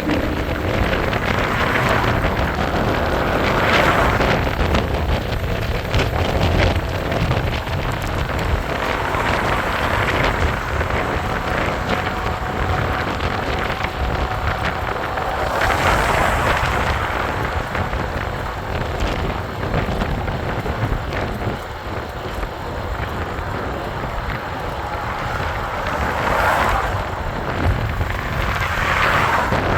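Wind rushing over the microphone of a moving e-bike, with steady road noise that swells a few times.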